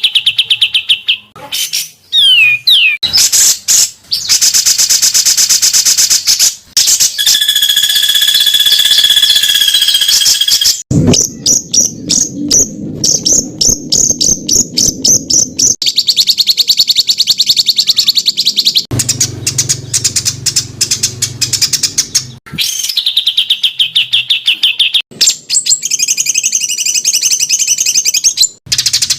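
Songbird song of the kind used to tutor white-rumped shamas and leafbirds: a string of very fast, harsh trills and rapidly repeated notes, switching to a new phrase every few seconds, with a held whistle partway through.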